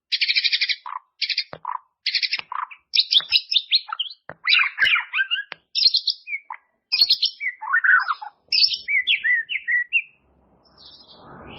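White-rumped shama (murai batu) singing a fast, varied song of short rattling buzzes and whistled, sliding phrases, the rich repertoire used to train kept shamas. The song stops about ten seconds in, and a faint rushing noise begins near the end.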